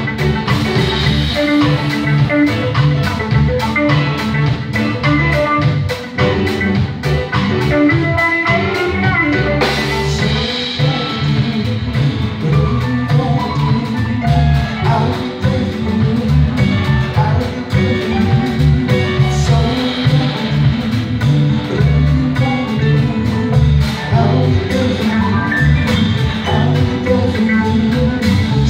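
Live band music playing an instrumental passage without vocals, with a steady drum beat under bass and melody instruments.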